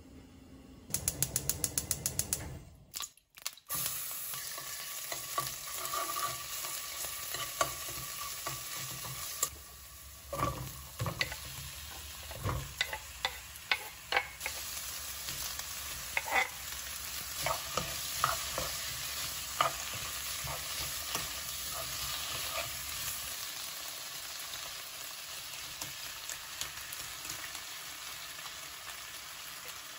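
Sliced onions and bacon sizzling in a frying pan, stirred with a spatula that scrapes and taps against the pan, most often in the middle of the stretch. Just before the frying starts there is a quick run of regular clicks.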